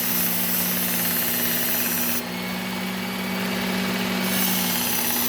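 Electric belt knife sharpener running steadily: a constant motor hum under the hiss of the moving belt, the hiss thinning for about two seconds midway.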